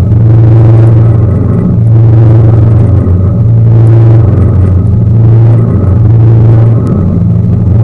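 Tour boat's engine running steadily at cruising speed, heard from on board as a loud low drone that swells and eases slightly every second or two.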